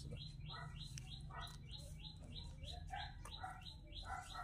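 Birds chirping: a steady run of short, high rising chirps about three a second, with other scattered calls mixed in, over a faint low hum.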